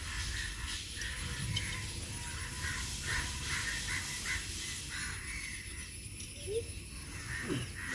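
Crows cawing in a run of short, repeated calls that stop about four and a half seconds in.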